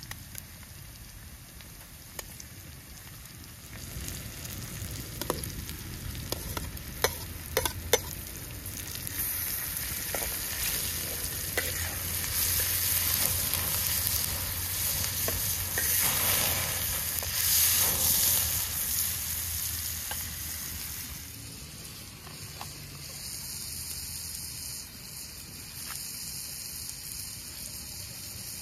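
Food frying in a pan, sizzling. A few sharp clinks come first, then the sizzle swells loud through the middle and dies down near the end.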